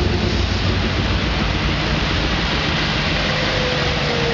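Classic car engines running at low speed as cars roll past: a low steady hum under a constant hiss, with a faint tone slowly falling from about three seconds in.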